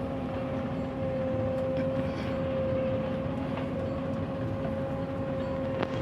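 Heavy diesel machinery running steadily: a constant high whine over a low engine rumble. There is a single sharp click near the end.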